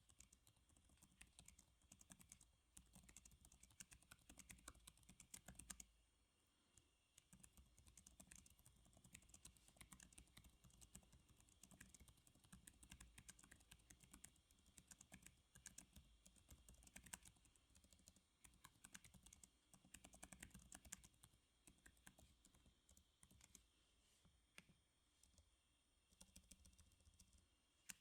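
Faint computer keyboard typing: a steady run of irregular keystrokes with a couple of brief pauses.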